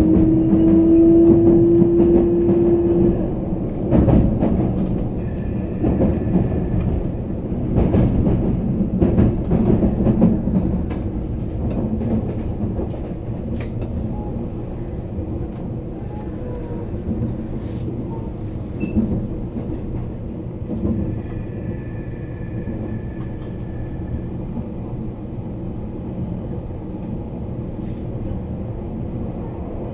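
Running sound inside a JR East E657 series limited-express train: a steady rumble of wheels on rail. A whine rises slightly for the first three seconds, a handful of knocks from the wheels over the track come in the first ten seconds or so, and then the run settles a little quieter and smoother.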